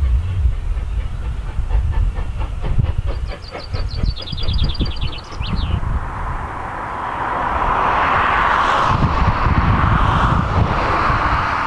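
A train running away along the track: a low rumble with wheels clicking over the rail joints. A small bird sings a short, fast trill in the middle. Later a steady hiss takes over.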